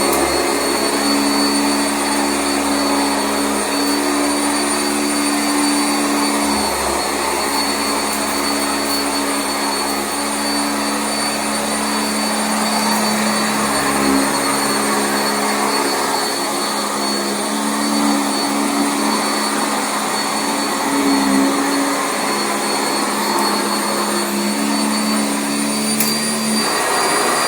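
Sanitaire SC679J commercial upright vacuum running steadily over carpet, with a constant high whine over the motor noise and a lower hum that shifts now and then as it is worked.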